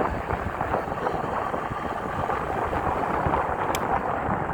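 Steady wind noise buffeting the microphone, with one short sharp click near the end.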